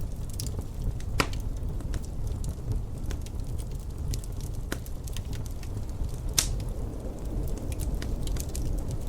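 Wood fire crackling, with scattered small snaps and two sharper pops, about a second in and past the six-second mark, over a steady low rumble.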